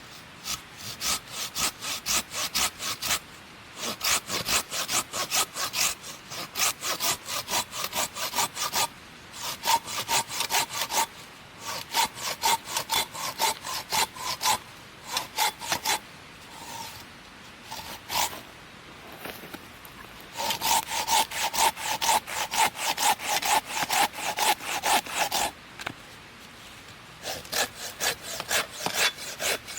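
Hand saw cutting wood in quick back-and-forth strokes, about three a second, in runs of several seconds broken by short pauses, with a longer pause midway.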